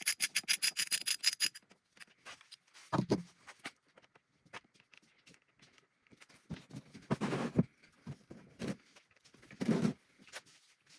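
Socket ratchet clicking fast, about eight clicks a second, as it backs out the oil drain plug of a four-stroke outboard; the clicking stops about a second and a half in. Scattered scraping and knocking of tools and parts follow.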